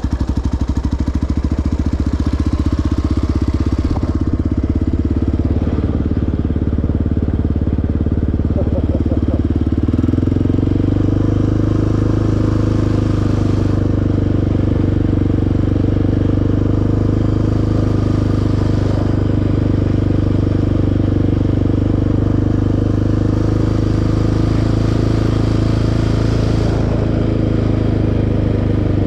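A sport quad's single-cylinder four-stroke engine runs steadily under riding load. About ten seconds in, the engine note steps up to a higher pitch and holds there.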